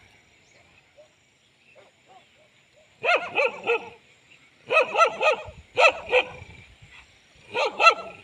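Dogs fighting, one barking in four quick bursts of two to four sharp barks each, the first about three seconds in.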